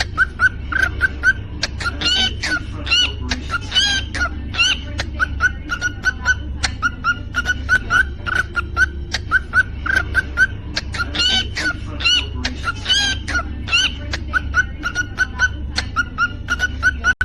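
Cockatiel chirping and whistling: a steady run of short chirps, about three to four a second, broken twice by phrases of rising whistles, over a low steady hum.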